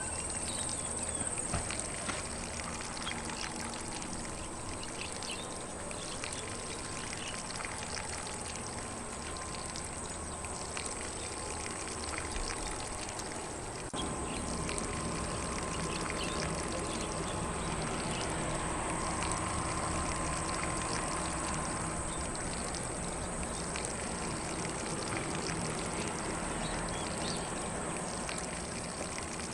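Lawn sprinkler spraying water over grass: a steady hiss of spray and patter of falling drops, a little louder from about halfway through, with faint birdsong.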